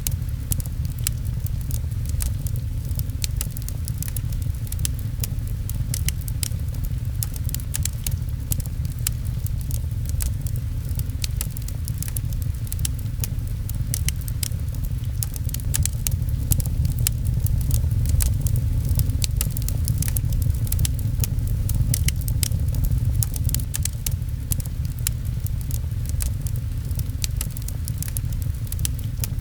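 Wood fire in a fireplace crackling, with many sharp, irregular pops over a steady deep rumble.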